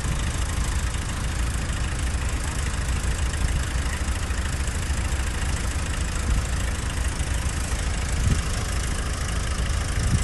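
Heavy machinery's diesel engine running steadily at a low rumble.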